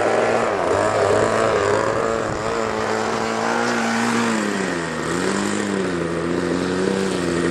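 Radio-controlled model aeroplane engine running at speed during take-off and flight, one steady buzzing note whose pitch wavers and dips clearly about five seconds in before coming back up.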